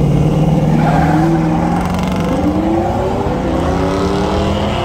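Cars launching down a drag strip, their engines revving hard and pulling away. The engine pitch climbs from about a second in, drops briefly just after two seconds as a gear changes, then climbs again.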